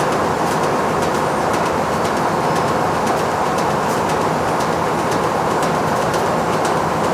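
Factory machinery running steadily: a loud, continuous mechanical din with faint, irregular light ticks.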